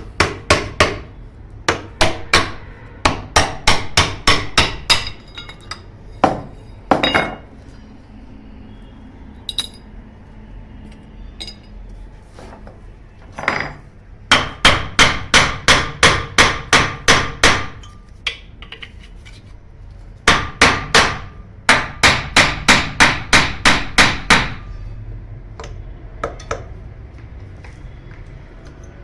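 Hammer striking the metal of a 0.5 hp water pump during repair, in quick runs of about four blows a second broken by short pauses. Each blow rings.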